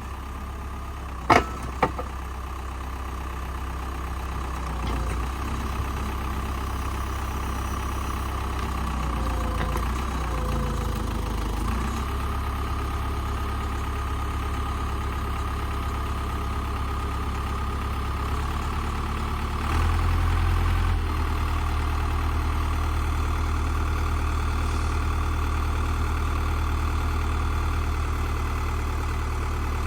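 Old tractor backhoe's engine running steadily, with two sharp knocks a little over a second in and a brief rise in engine level about two-thirds of the way through.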